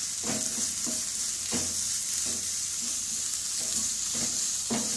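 Onion masala sizzling steadily in hot oil in a kadai while a spatula scrapes and stirs it, about seven strokes spread unevenly through.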